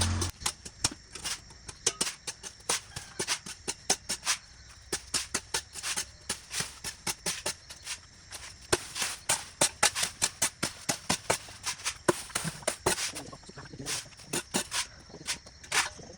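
Irregular sharp clicks and snaps, several a second, over a faint steady high-pitched hum.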